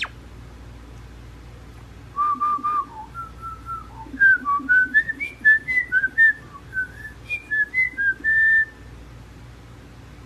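Pet talking bird whistling a tune: a run of short, clear notes that wander up and down and climb overall, starting about two seconds in and stopping shortly before the end.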